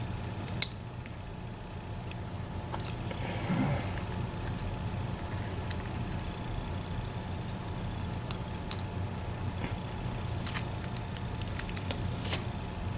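Small, irregular metal clicks and scrapes as a hook tool works at a part inside a disassembled EVVA ICS lock cylinder, trying to pull it out. A steady low hum runs underneath.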